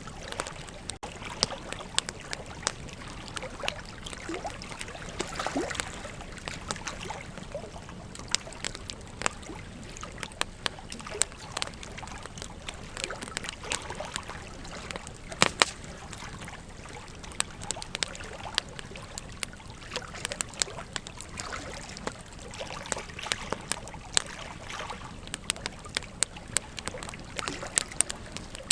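Wood campfire crackling, with frequent sharp pops, the loudest about halfway through, over the steady rush of a flowing river.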